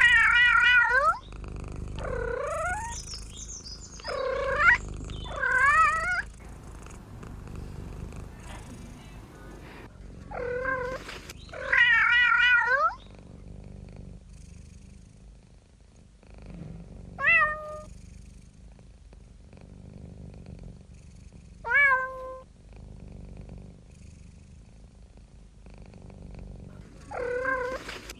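A domestic cat meowing again and again, about nine times. Several meows are long and drawn out, a few are short and clipped, and some come with gaps of several seconds between them.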